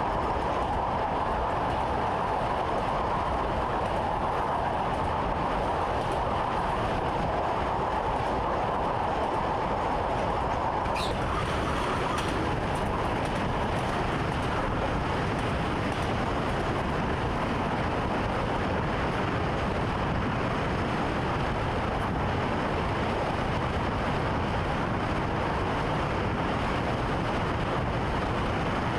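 Commuter train running along the track, heard from the driver's cab: a steady rolling rush of noise, with a brief high squeal about a third of the way in.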